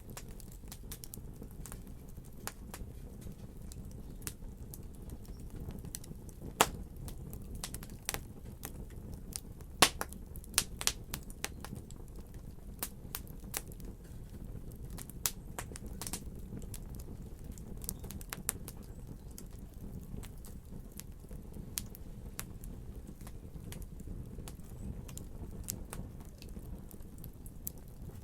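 Wood fire crackling in a fireplace: scattered sharp pops and snaps over a low steady rumble, with a few louder pops in the first half.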